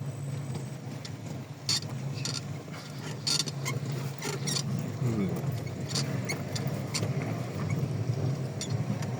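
Car driving along a road: a steady low engine and road drone with scattered sharp clicks and rattles.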